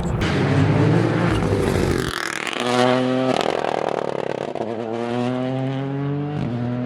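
Rally car engine at full load that cuts off sharply about two seconds in as the driver lifts, then picks up again and accelerates away with the revs climbing steadily, changing gear near the end.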